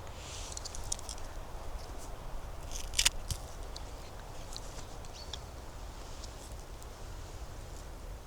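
Footsteps on the forest floor, leaves and twigs crackling underfoot in scattered small clicks, with one sharp crack about three seconds in.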